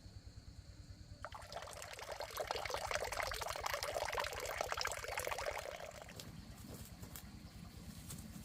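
Water pouring and splashing, starting about a second in and fading out after about six seconds, over a low steady rumble.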